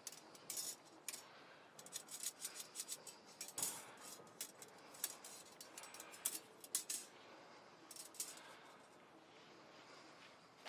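Irregular light clicks, clinks and rustles of small hard objects, such as metal camp utensils and gear, being handled, quieter near the end.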